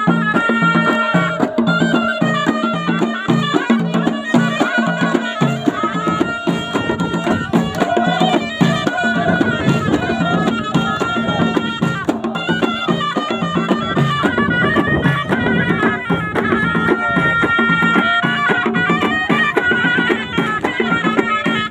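Moroccan ghaita, a loud double-reed shawm, playing a folk melody over a steady drum beat.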